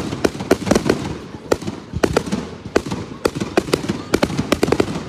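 Fireworks going off in a rapid, irregular string of sharp cracks and bangs, several a second, with a brief lull near the end.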